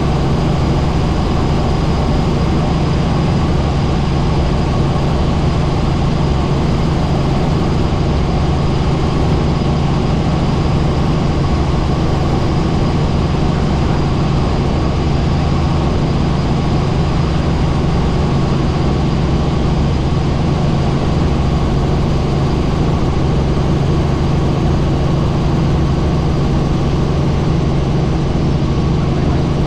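Helicopter in flight: steady engine and rotor noise, unchanging throughout.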